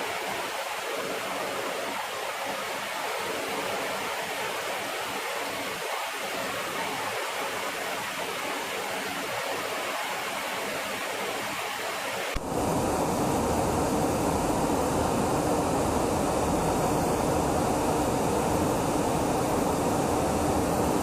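Steady rushing noise of jet engines running, with an abrupt cut about twelve seconds in to a louder, deeper rushing noise that carries faint steady tones.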